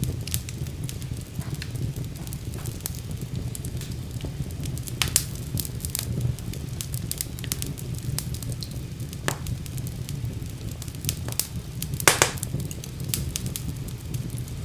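Wood fire burning in a fireplace: a steady low rumble of flames with irregular sharp crackles and pops, the loudest a quick cluster of pops about twelve seconds in.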